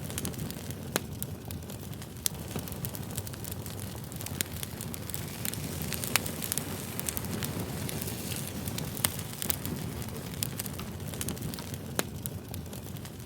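Campfire burning: a steady low rumble of flames with sharp wood crackles and pops every few seconds.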